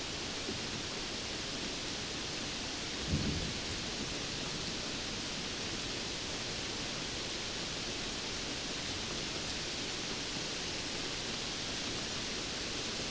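Steady rain hiss. A single brief low thump comes about three seconds in.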